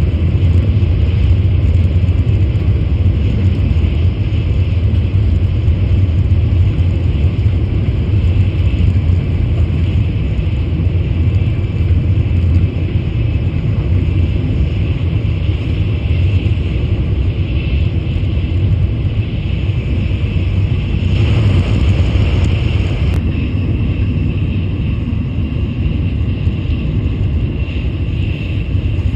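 Shinkansen high-speed train running at speed: a steady low rumble with a hiss above it, which grows into a louder rush for about two seconds about two-thirds of the way through.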